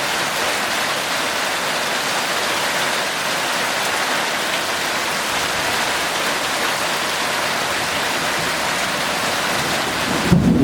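Heavy, torrential rain falling steadily. Near the end a low rumble of thunder sets in and grows louder.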